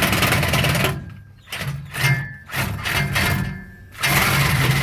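Cordless reciprocating saw cutting through a steel exhaust pipe. It runs for about a second, then in several short stop-start bursts, then steadily again near the end. The blade is cutting poorly, and is thought to be worn.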